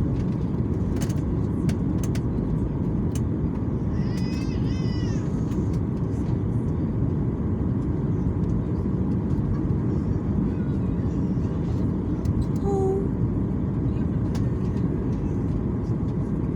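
Steady low rumble of airliner cabin noise, even and unchanging. About four seconds in there is a brief run of high chirping sounds, and near 13 seconds a short single tone.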